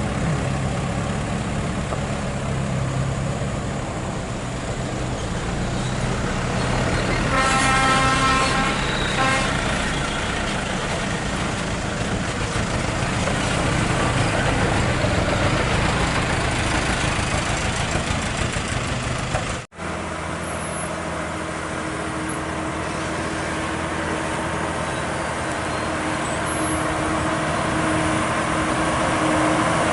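Heavy truck engine running steadily, with a vehicle horn sounding for about two seconds around a quarter of the way in. Near the middle the sound cuts out for an instant and the engine drone continues at a different pitch.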